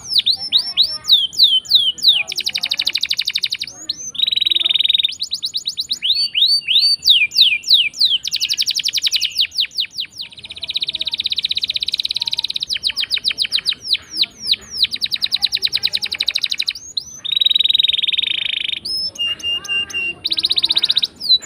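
Domestic canary singing continuously. Quick runs of descending whistled notes alternate with long, fast trilled rolls, each held for a second or two.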